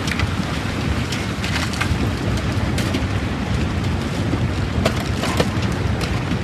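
A stream in flood after heavy rain rushes in a steady, loud roar of water, with scattered short sharp knocks.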